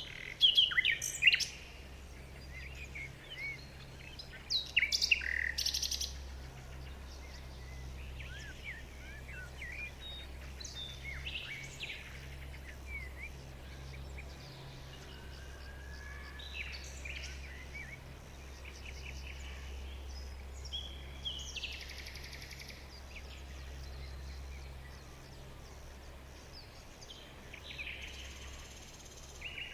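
Several wild birds chirping and singing, with short calls and trills overlapping. The loudest bursts come in the first six seconds. A steady low hum runs underneath.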